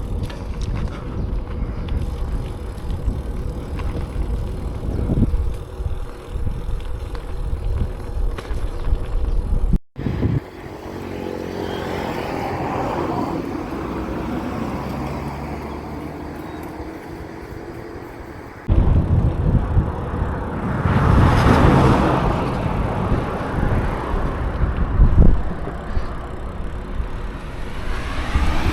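Road traffic passing and wind rumble on the microphone while riding a bicycle along a road, in three separate clips joined by sudden cuts; a vehicle swells past about two-thirds of the way through.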